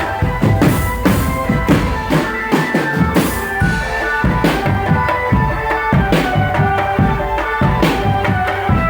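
Marching drum band playing: a dense run of snare and bass drum strokes under a melody of held notes.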